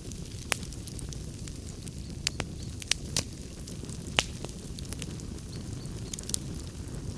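Wood fire burning in a fireplace: a steady low rumble of flames with scattered sharp crackles and pops from the burning logs, the loudest pop about four seconds in.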